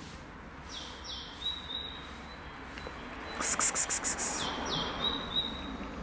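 A small songbird singing a repeated high phrase: two short notes slide down into a longer steady whistle, once about a second in and again near five seconds. In between, a quick run of sharp ticks is the loudest sound.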